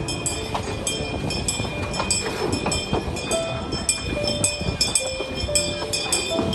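Puffing Billy's narrow-gauge steam train running, with a steady rhythm of sharp clicks about three times a second.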